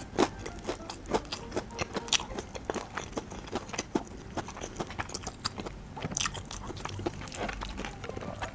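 Close-up chewing of a crispy fried-chicken burger: many short sharp crunches of the fried coating, several each second, with wet mouth sounds.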